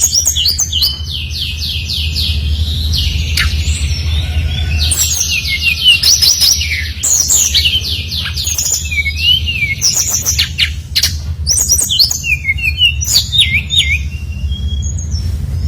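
A sikatan rimba dada coklat (SRDC, a jungle flycatcher) singing non-stop in fast, varied high phrases: runs of quick repeated chirps and trills with short pauses between them. A steady low hum runs underneath.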